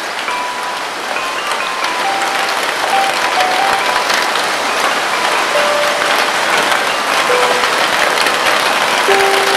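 Heavy rain falling steadily, slowly growing a little louder. Short, clear single notes at changing pitches sound over the rain every half second or so.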